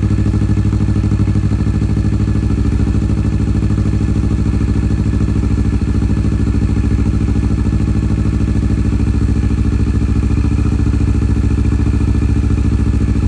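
Kawasaki Vulcan S's 649 cc parallel-twin engine idling steadily, run just after an oil change to circulate the fresh oil and check for leaks.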